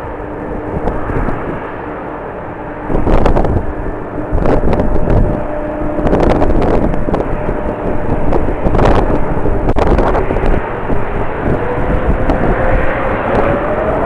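Strong wind buffeting the microphone in gusts, the first big one about three seconds in, over the steady whine of jet airliner engines; the engine tone rises in pitch over the last few seconds.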